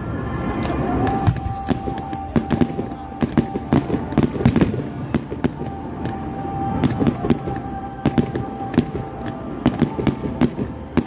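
Fireworks going off in quick succession: many sharp bangs and crackles from a barrage fired low from the ground. A steady high tone runs through most of it.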